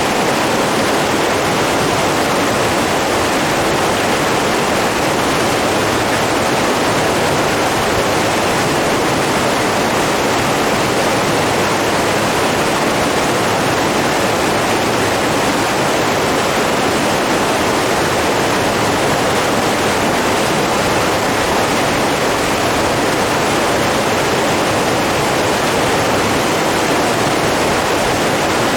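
Running water rushing steadily: an even, unbroken noise with no breaks or changes.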